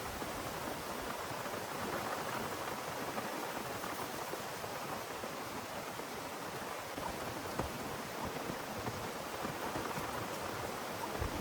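Heavy rain falling steadily, with a few sharper drop hits in the last few seconds.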